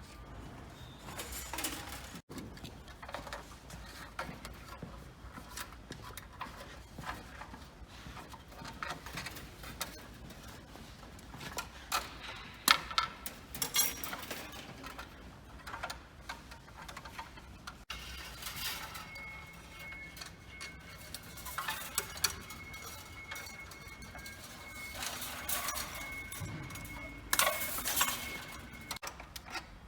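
Scattered metallic clinks and knocks from tools and metal parts being handled during engine work, irregular in spacing with louder clusters about halfway through and near the end. A thin steady whine runs through the second half.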